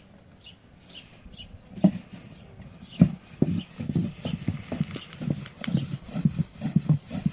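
Soft, dull thuds of hands patting and slapping bread dough to flatten it into a round. They start about two seconds in and settle into a steady rhythm of two to three pats a second.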